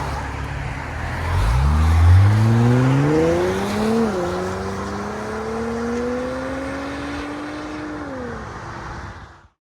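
The 2019 Infiniti Q50's 3.0-litre twin-turbo V6, breathing through Flowmaster Flow FX mufflers and the stock resonators, accelerates away. The engine note rises, drops sharply at an upshift about four seconds in, then climbs more slowly. It eases off near the end and cuts off suddenly.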